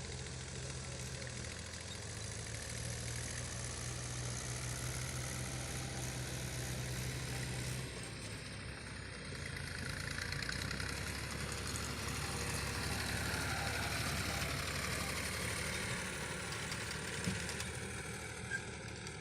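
Tractor engine running steadily, its low note changing about eight seconds in.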